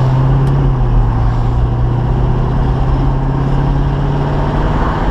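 Chevy 350 V8 of a 1972 Chevy Nova running under gentle acceleration on the road, a steady low drone that rises slowly in pitch as it pulls toward the shift into third gear.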